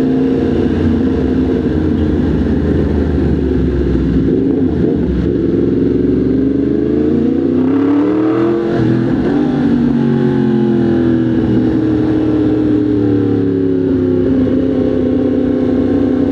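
Motorcycle engine running under way. About halfway through it revs up and then eases off again, settling to a steady pitch, over road and wind noise.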